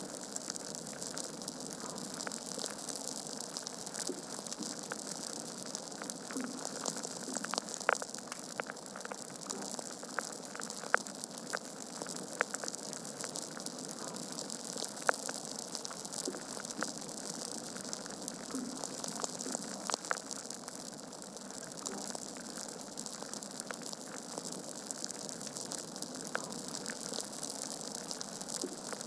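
Wood fire crackling in a fireplace: a steady hiss with irregular snaps and pops from burning logs, a few sharper pops standing out.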